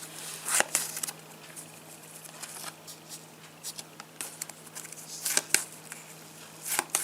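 Topps Match Attax trading cards being handled and laid down: scattered short rustles and taps.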